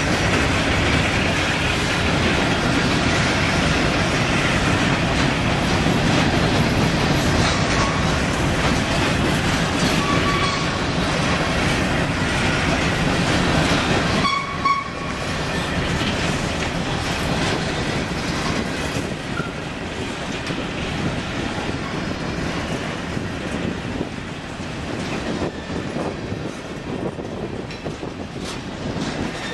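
Freight train of covered hopper cars rolling past close by, the wheels clattering over the rail joints. About halfway, after a cut, a diesel switcher locomotive running alongside, a little quieter.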